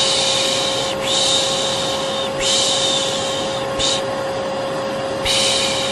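Vacuum cleaner running with a steady drone and motor whine, while a person repeatedly shushes 'shhh' over it to soothe a baby to sleep. The shushes come about once a second, mostly long with one short one.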